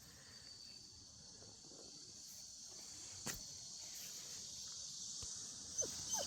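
Steady high chirring of insects, with a single sharp click about three seconds in. Near the end the puppy gives two short falling whimpers.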